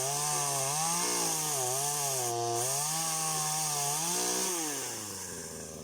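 Chainsaw running at high revs, its pitch rising and dipping as it is worked, then dropping back to a low idle near the end.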